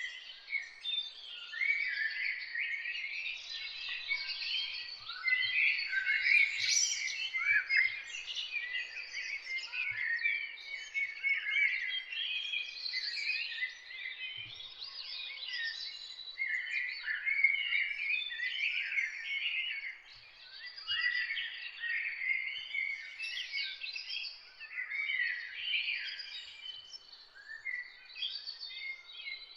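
Many songbirds singing and chirping at once in a dense, unbroken chorus of overlapping short calls and trills. A faint, steady high note runs underneath.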